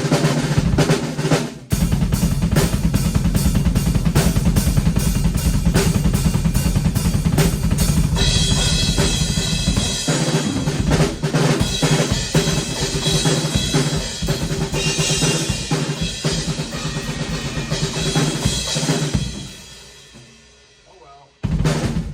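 Drum kit played fast: rapid strokes on a Tama 14x6.5" bubinga snare with kick drum, with Sabian AA and AAX cymbals washing in about a third of the way through. Near the end the playing stops and the cymbals ring out and fade, followed by one last hit.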